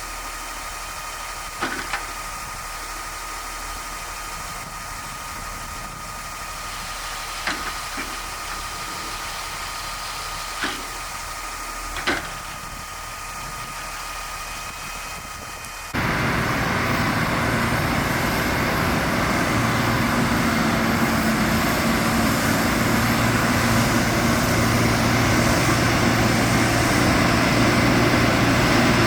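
A motor running steadily, with a few sharp clicks. About halfway through it jumps suddenly to a much louder, rougher running sound.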